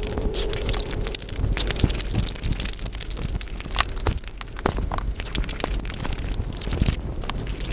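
Close-miked eating sounds sped up five times: a rapid, dense patter of chewing, mouth clicks and small crunches from someone eating sweets.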